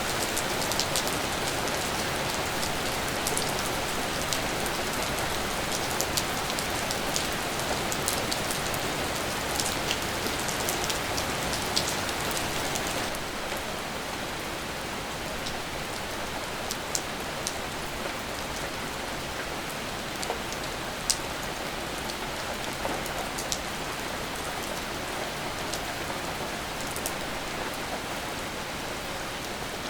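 Steady rain falling, an even hiss with scattered sharp ticks of drops striking a surface. It eases slightly about halfway through.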